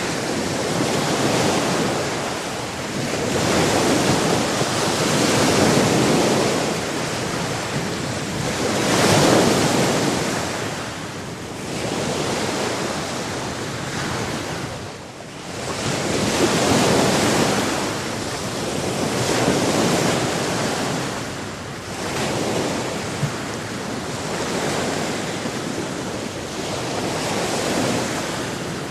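Sea waves breaking and washing up on a shore, the surf swelling and falling away every few seconds, with a brief lull about halfway through.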